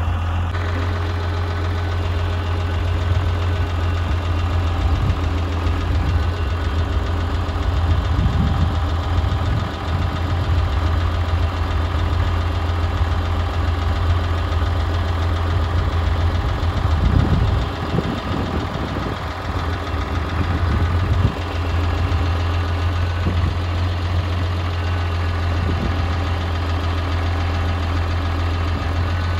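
International 860 diesel tractor engine idling steadily, its level wavering briefly about two-thirds of the way through.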